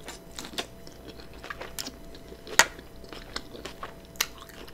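A person chewing a mouthful of cheesy steak-and-egg omelet: soft, wet, irregular mouth clicks, with one sharper click a little past halfway.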